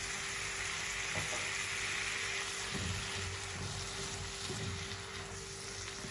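Diced tomatoes, onion and garlic sizzling in hot olive oil in a non-stick frying pan, with a splash of water just added. The hiss is strongest for the first couple of seconds and then eases. A silicone spatula stirs through it with soft scrapes and knocks.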